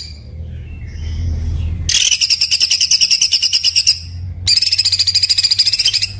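Songbird singing a harsh, very rapid rattling burst of repeated high notes, about a dozen a second, the rough, tightly packed 'tembakan' phrase used as a master song for training cage birds. Two such bursts, the first about 2 s in and the second after a short pause, with a low steady hum underneath.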